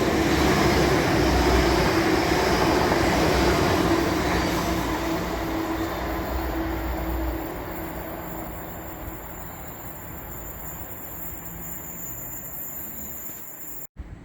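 Diesel train running past, loud at first and then fading steadily over several seconds as it moves away. The sound cuts off abruptly near the end.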